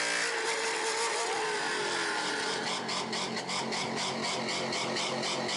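Car engine revving through a loud exhaust. Its pitch glides at first, then from about halfway comes a rapid, even crackle of about four or five pops a second.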